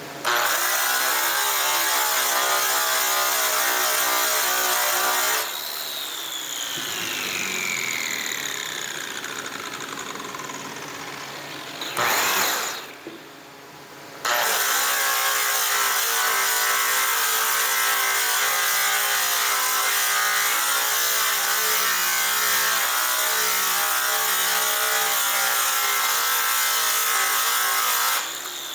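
Electric polishing tool running on a metal exhaust pipe, switched off about five seconds in and winding down with a falling whine. A short burst of running near twelve seconds, then it runs steadily again from about fourteen seconds until it stops near the end.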